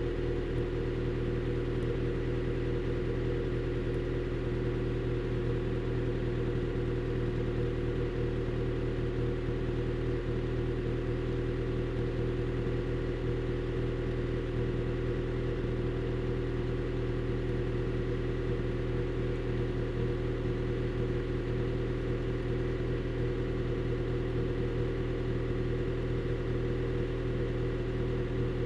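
Honda Shuttle Hybrid's petrol engine idling steadily through an HKS Silent Hi-Power aftermarket muffler, held running by the hybrid system's maintenance mode. The exhaust note is an even, low hum.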